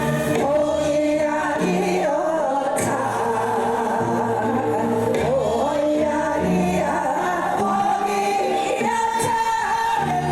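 Live band music with a singer: a wavering vocal melody over a steady bass line whose notes change every second or so.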